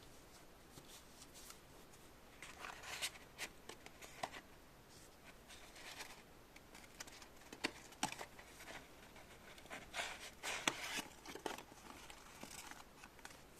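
Faint, irregular light clicks and short rustles, like small objects being handled.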